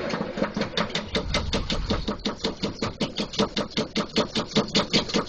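The 6.2 L V8 diesel of an M1009 CUCV Blazer turning over on its starter in a 12 °F cold start, with an even chug of about seven compression pulses a second. The engine does not catch.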